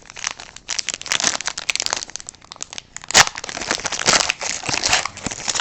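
A trading card pack wrapper being torn open and crinkled, an irregular run of crackles with louder bursts about three seconds in and near the end.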